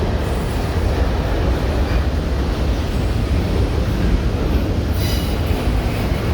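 Freight train rolling past on the track, a steady loud rumble of wheels and cars, with a brief high wheel squeal about five seconds in.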